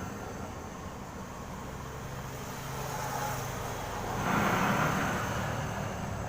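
Gas brazing torch flame hissing steadily, swelling louder for about a second partway through, while joining copper refrigerant pipe inside a refrigerator.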